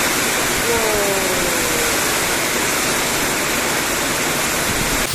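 Heavy rain pouring in strong wind: a loud, steady roar, with a faint falling tone about a second in.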